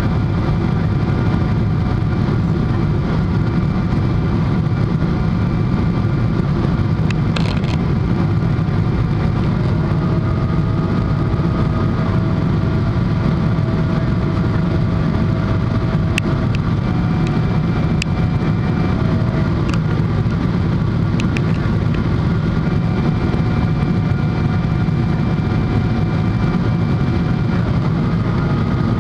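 Jet airliner cabin noise inside a Boeing 777-300: a steady, loud low rumble of engines and airflow, with faint steady whining tones above it and a few faint clicks.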